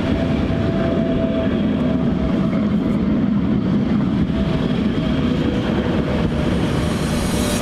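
Steady low rumble of vehicle traffic, with a faint whine.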